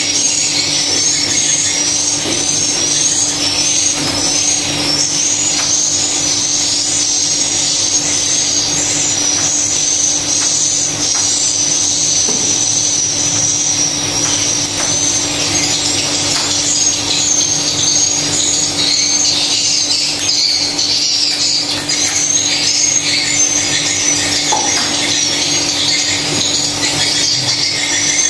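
Swiftlets' rapid, high twittering chirps, repeating continuously, over a steady low hum.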